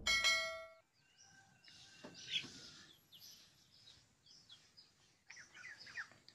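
A ringing tone fades out in the first moment, then faint bird chirps come in short, scattered calls, a few around two seconds in and a cluster near the end.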